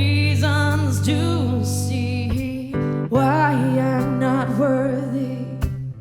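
Live acoustic song: an acoustic guitar plays under a wavering melody line that sounds like singing. The music drops out briefly near the end.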